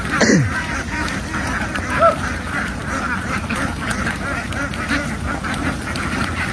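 A large flock of domestic ducks quacking continuously in a dense chorus of overlapping calls. At the very start a brief loud sound sweeps quickly downward in pitch, and a single louder call stands out about two seconds in.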